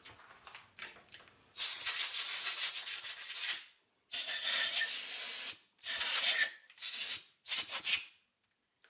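Pressurised spray hissing in five bursts, the first about two seconds long and the later ones shorter, each starting and stopping abruptly.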